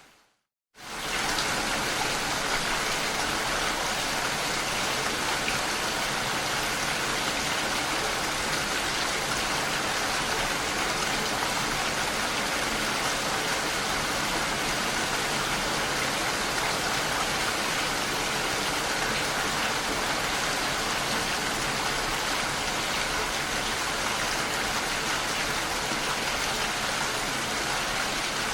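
Heavy rain on a window: a dense, even hiss with no let-up. It begins with a moment of silence, then fades quickly back in within the first second or so.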